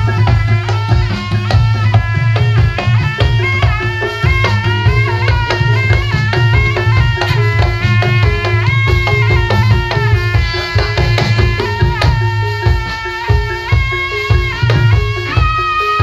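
Live Javanese barongan music: drums beating fast and steadily under a held melody on a sustained melodic instrument that moves in small steps.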